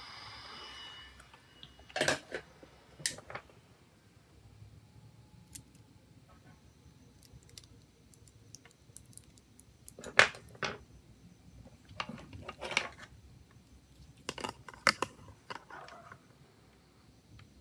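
Small hard objects, such as tools and phone parts, clicking and clinking as they are handled, in scattered clusters about two seconds in, around ten seconds, and again around twelve to fifteen seconds. A steady hiss cuts out about a second in.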